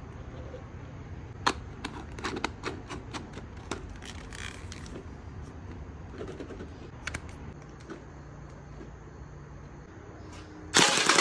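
Toy gel blaster firing: a string of sharp single shots, then about ten seconds in a sudden, much louder rapid rattle of fully automatic fire.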